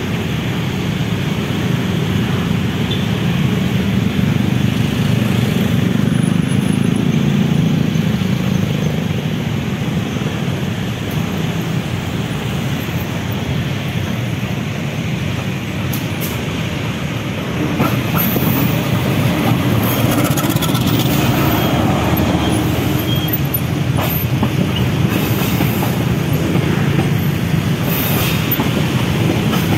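Diesel-electric locomotive running steadily as it approaches hauling passenger coaches. From about halfway through, the coaches' wheels pass beneath with clicks over the points and high squeaks.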